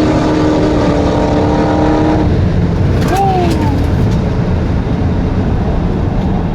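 Car driving fast, with loud wind and road rumble throughout. A steady whine drifts slightly lower in pitch and stops about two seconds in.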